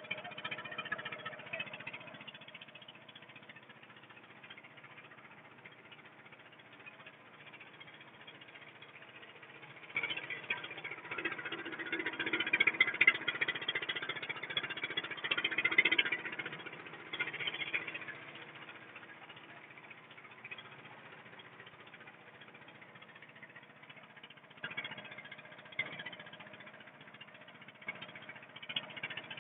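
Boat engine running steadily with a rattle. A louder stretch comes about a third of the way in and lasts several seconds, with more bursts near the end.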